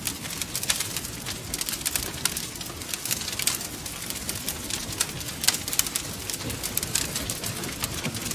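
Wood fire crackling, with many sharp irregular pops and snaps, several a second, over a steady low hiss and rumble.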